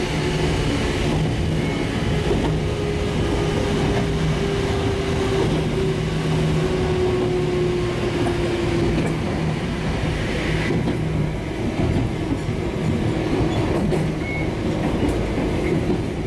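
Sangi Railway electric passenger train running along the track, heard from inside the front cab: a steady rumble of wheels on rail, with a faint whine that drops slightly in pitch a few seconds in.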